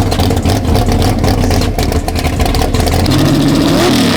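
A loud car engine rumbling at low revs, with much crackle over it, then revving up about three seconds in.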